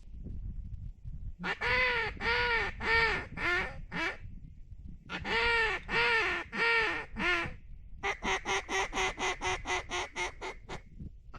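Duck call blown in hen-mallard quacks: two runs of six or seven drawn-out quacks, then a fast run of about twenty short quacks like feed chatter, over a low wind rumble.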